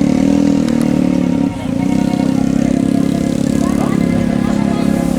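Motorcycle engine running steadily at idle, with a brief dip about one and a half seconds in.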